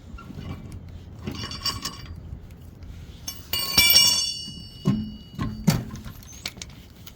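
Metal parts clinking against each other twice: a first jingle about a second in, then a louder ringing clink about three and a half seconds in that rings on for a couple of seconds, followed by two dull knocks.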